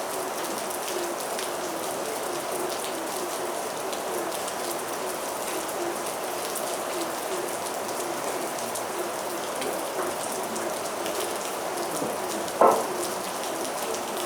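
Heavy rain falling steadily on surfaces, with a brief loud knock near the end.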